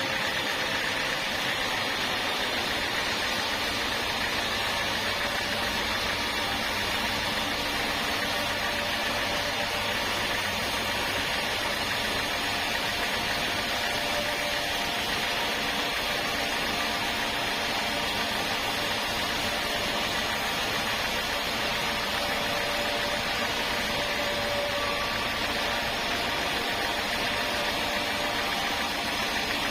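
Sawmill machinery running steadily: a continuous motor drone that holds the same level and pitch throughout.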